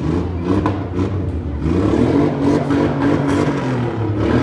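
Demolition derby car engines running hard and revving, the pitch rising and falling, as two cars locked together strain to pull free of each other.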